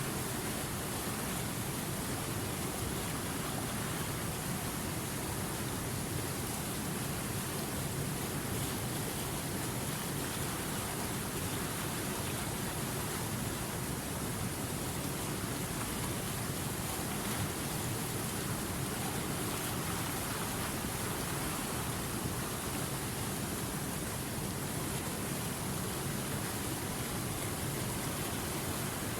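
River water rushing over rocks: a steady, even rush with no change.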